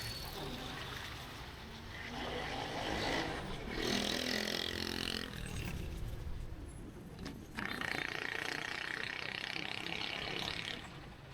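Motorbike ride through city traffic: a steady low rumble of engine and road noise, with two stretches of louder rushing noise, one about two seconds in and one near eight seconds in.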